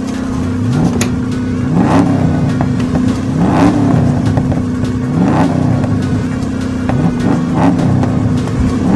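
Monster truck engine sound effect revving up and dropping back again and again, about every second and a half to two seconds, over a steady low drone.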